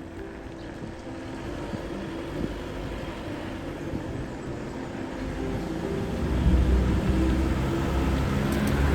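A motor vehicle's engine rumble grows louder from about five seconds in, as a car comes close.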